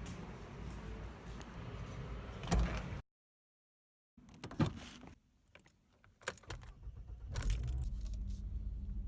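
Keys jangling with a scatter of clicks and rattles, then a car engine running steadily from about seven and a half seconds in. Before this comes a low rumble that stops dead about three seconds in, with a second of silence.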